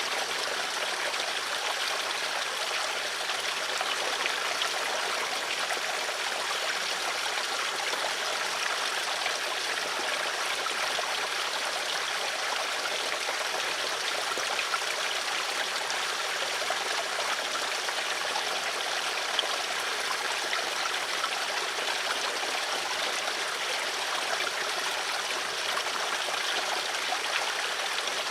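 Water flowing steadily in a stream, an even rushing with fine splashing and trickling.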